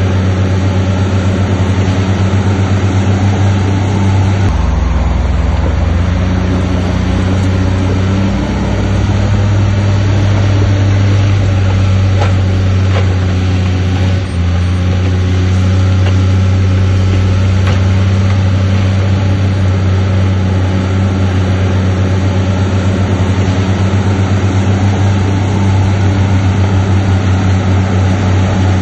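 Heavy diesel engine of earthmoving machinery running steadily under load, its note shifting a few seconds in, with a few light knocks near the middle.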